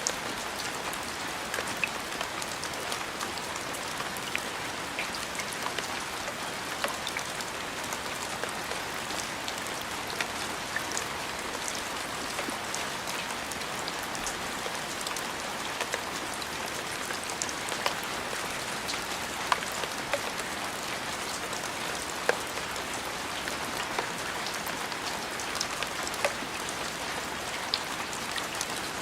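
Steady rain falling on a surface, a constant hiss with scattered sharper drops tapping close by.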